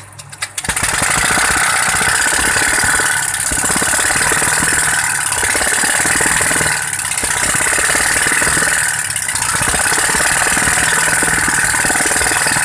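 Compressed-air engine with an altered cam, picking up speed about a second in and then running fast and steady. It makes a rapid clattering beat of exhaust puffs over a loud hiss of air.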